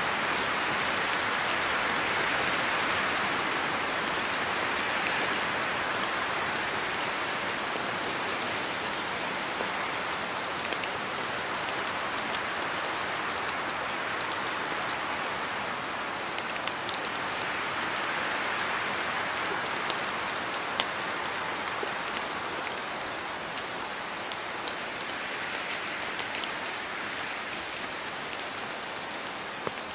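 Steady rain falling on a house yard, a dense even hiss with scattered sharp drop ticks. It swells and eases slowly, slightly lighter near the end.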